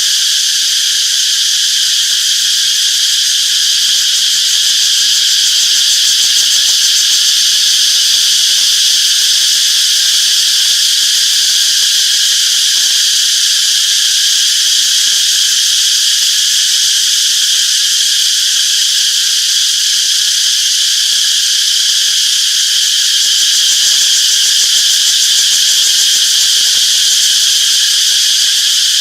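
Cicadas calling in a steady, unbroken high-pitched chorus that holds the same level throughout.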